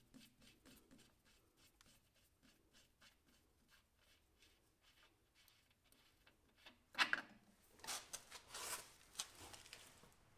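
Quiet handling noises: faint light ticks, then a sharp clack about seven seconds in followed by a few more clattering knocks over the next two seconds.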